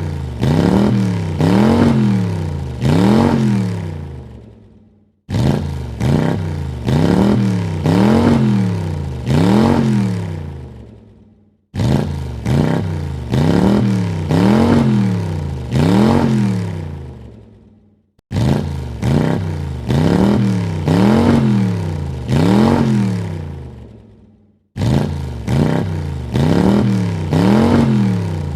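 Car engine revved in quick throttle blips, three or four per burst, the pitch rising and falling with each blip. The same burst starts abruptly and fades away, repeating about every six and a half seconds.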